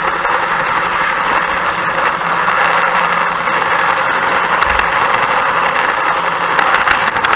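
A train running steadily: an even rushing noise over a constant low hum, with a few light clicks near the end.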